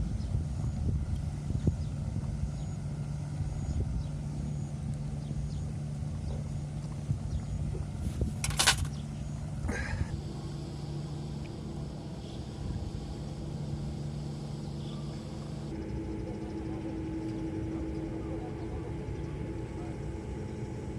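A steady low engine drone, with one short sharp sound about eight and a half seconds in; about halfway through a higher steady tone joins the drone.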